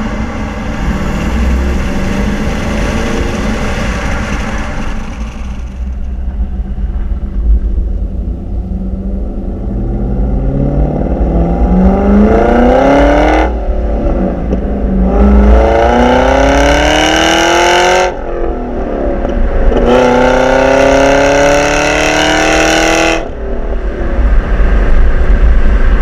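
Supercharged 6.0-litre V8 of a Pontiac G8 GT with a ProCharger, Kooks headers and Corsa dual exhaust. It runs steadily, then accelerates hard in three rising pulls through the gears, breaking briefly at each upshift about halfway and two-thirds through before easing off near the end. A high supercharger whine rises along with the exhaust note during the pulls.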